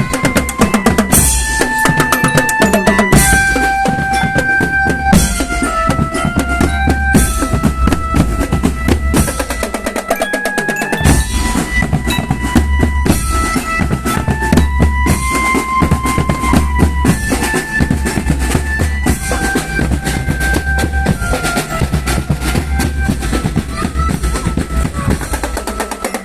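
Marching drum band playing: snare and bass drums keep a busy march beat under a melody of held notes that step up and down. The low drums drop out for about a second around the middle, then come back in.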